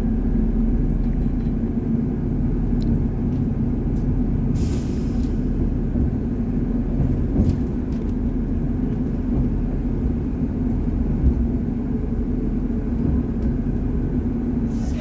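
Class 158 diesel multiple unit idling at a standstill: a steady low engine rumble, with a short hiss of air released about four and a half seconds in.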